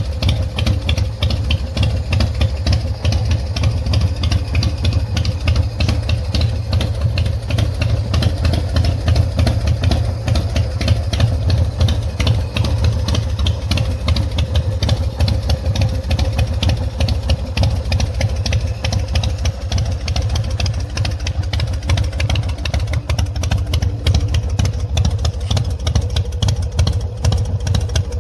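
Big Dog K9's S&S 117 cubic-inch air-cooled V-twin idling steadily, with an even, rapid pulse of firing strokes and no revving.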